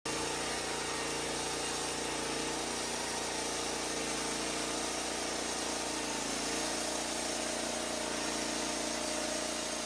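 A small engine running steadily at a constant speed, with an even hum that does not change.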